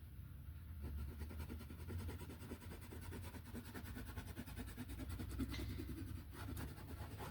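Faint, rapid scratching of a colouring tool stroking back and forth across paper while colouring in grass, over a steady low hum.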